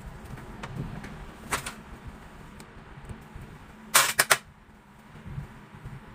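Sharp clicks or knocks over a low, steady hum: a quick pair about one and a half seconds in, then a louder quick run of three about four seconds in.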